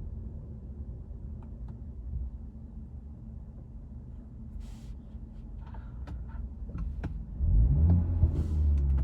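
Engine and road rumble of a 2020 BMW 330i heard from the cabin, at low speed. A few faint clicks sound in the middle, and near the end the rumble gets louder as the engine note rises briefly.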